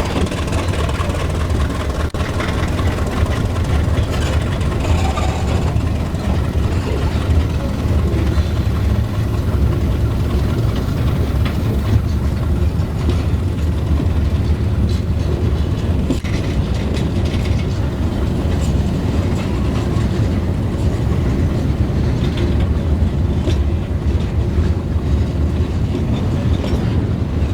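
Passenger train running along the track, heard from on board: a steady, loud low rumble of the carriage with wheel-on-rail noise and faint scattered clicks.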